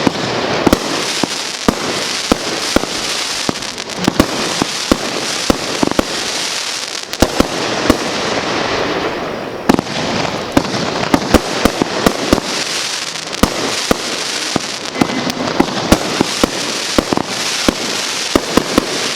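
Class C consumer fireworks firing in rapid succession: a dense, irregular run of sharp reports, several a second, over a continuous hiss.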